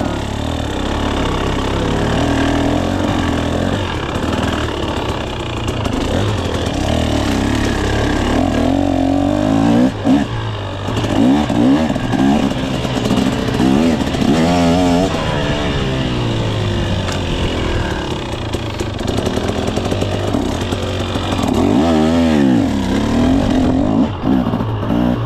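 2024 KTM 300 SX two-stroke single-cylinder dirt bike engine, revving up and down again and again as it is ridden on a trail, with the throttle opened and closed between shifts.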